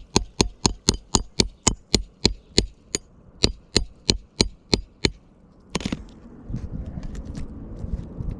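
Hammer striking a snake tool (shingle nail-removal bar) slid under an asphalt shingle to work a roofing nail loose: about three sharp blows a second for some five seconds, then one louder knock followed by scraping.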